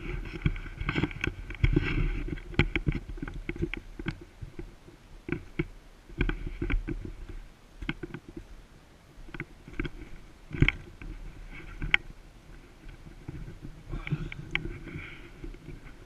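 Footsteps and rustling of someone walking through woodland undergrowth, with irregular clicks and knocks and a steady low rumble from movement against the microphone.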